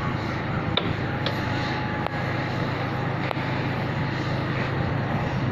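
Cessna R182 Skylane RG's six-cylinder Lycoming O-540 engine and propeller running steadily, a constant drone with a faint wavering whine and a few light clicks over it.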